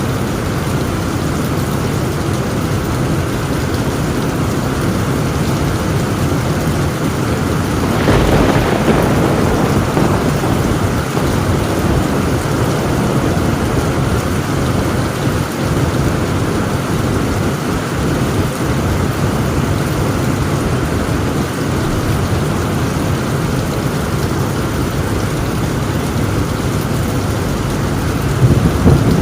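Heavy rain drumming steadily on a tin roof. About eight seconds in a thunderclap breaks and rumbles on for several seconds, and another loud rumble of thunder starts near the end.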